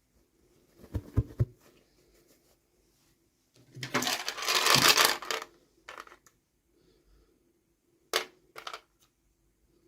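Unboxing handling sounds: a few low knocks about a second in, a loud crinkling rustle of packaging lasting about two seconds in the middle, then a few short clicks of small plastic pieces near the end.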